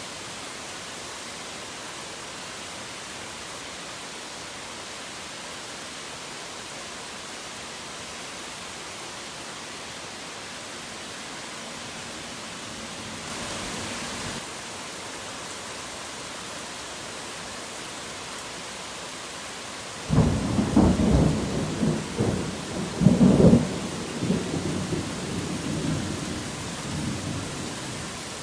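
Steady hiss of heavy rain, with a thunderclap breaking in about two-thirds of the way through: a sudden low crack and rumble, a second loud peak a few seconds later, then the rumble rolls away over several seconds.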